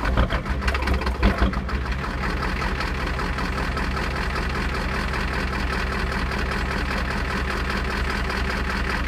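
Ford 7.3-litre diesel V8 just started from cold, running unevenly for about the first second and a half, then settling into a steady idle. It is a hard cold start after two weeks of sitting, which the owner puts down to bad glow plugs or a bad glow plug controller.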